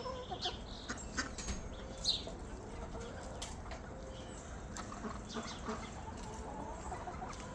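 Chickens clucking quietly, with a few short high chirps and scattered light clicks.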